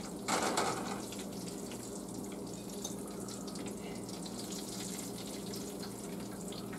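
Breaded chicken cutlets frying in a skillet: a steady, faint sizzling hiss with fine crackle, briefly louder just after the start as a cutlet is lifted from the pan.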